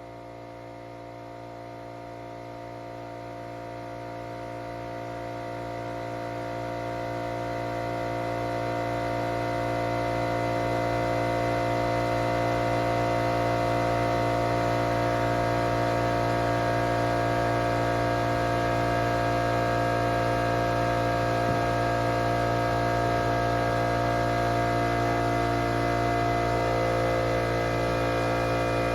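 A steady electrical-sounding hum made of many fixed tones, fading in over the first several seconds and then holding level.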